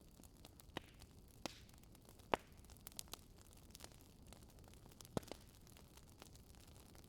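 Wood fire of a Swedish fire log crackling: scattered sharp pops at irregular intervals over a faint steady hiss, the loudest pop a little past two seconds in.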